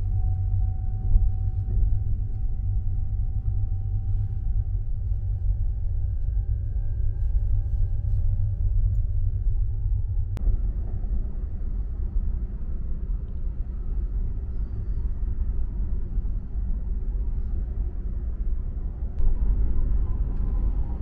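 Steady low rumble of the Sunrise Express sleeper train in motion, heard from inside the carriage. There is a single sharp click about ten seconds in.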